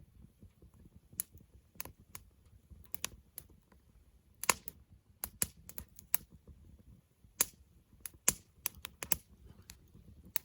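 Wood campfire crackling: irregular sharp pops and snaps from the burning wood, a few louder ones standing out, over the faint low rush of the flames.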